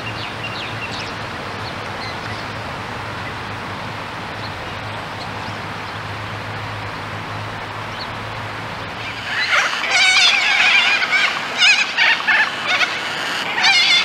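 Steady outdoor background noise with a low hum. About nine seconds in, loud bird calls start: repeated, wavering, whinny-like calls in several bursts.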